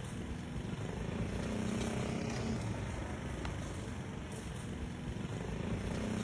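Steady road traffic noise, with a vehicle engine running.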